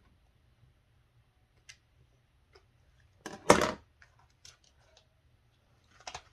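Hands handling plastic refrigerator parts during evaporator fan removal: a few faint scattered clicks, one loud clatter about three and a half seconds in, and more clicks near the end.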